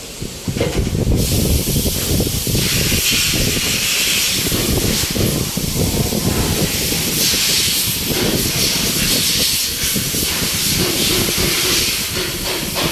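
A loud steady hiss over a low rumble, starting about a second in.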